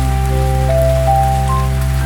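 Soft rain pattering, layered with slow ambient music: a steady low drone under long held notes, with a new note coming in about two-thirds of a second in and another higher one near the end.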